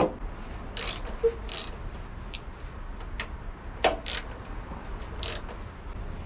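Scattered metallic clicks and short scrapes of hand tools working on a motorcycle, a second or so apart, with a sharper knock about four seconds in.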